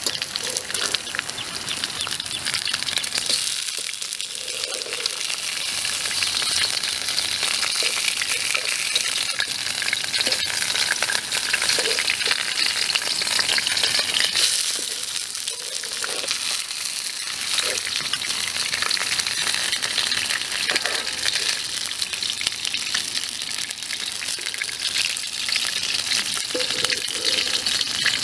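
Fish frying, a steady sizzle with small crackles throughout.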